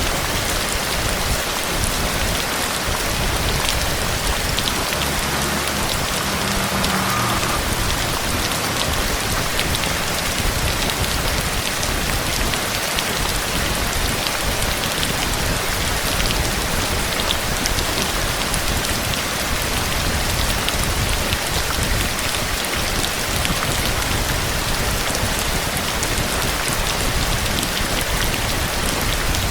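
Heavy, steady rain falling on surfaces, a dense even hiss speckled with the patter of individual drops.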